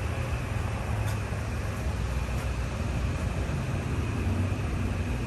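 Steady outdoor background rumble with no distinct events, like distant traffic or a running air-conditioning unit.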